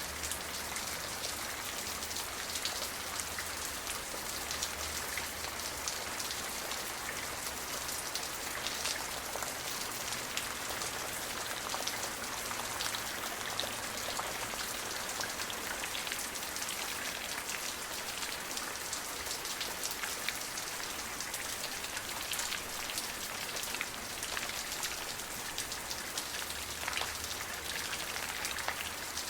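Steady rain falling, an even hiss of many drops striking a surface, with fine pattering ticks of individual drops.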